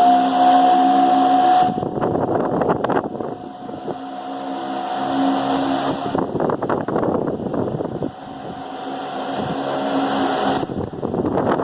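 Ventisol 60 cm 200 W wall fan running: a steady motor hum with several pitched tones. Every few seconds it is broken by stretches of rushing wind buffeting the microphone as the fan's airflow hits it.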